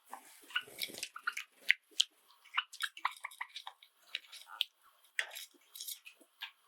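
Several Java sparrows chirping: a quick, irregular run of short, sharp chirps and clicking notes.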